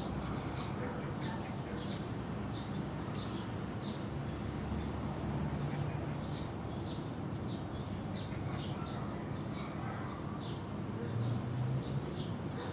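Short, high chirps repeating about twice a second, typical of a small bird calling, over a steady low rumble.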